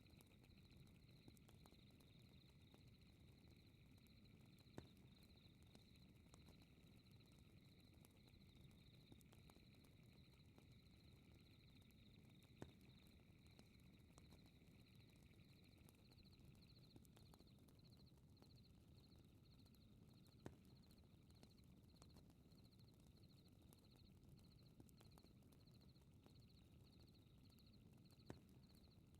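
Faint night ambience: insects chirp steadily in a fast pulsing trill, and a second, lower insect trill fades out about halfway through. Under it runs a fireplace crackling with small ticks and a low rumble, and a louder pop comes every eight seconds or so.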